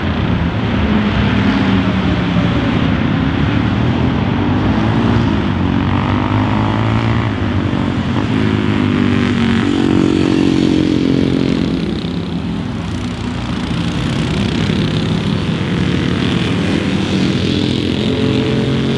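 Classic racing car engine running hard at high revs, its note climbing and dropping several times as it accelerates.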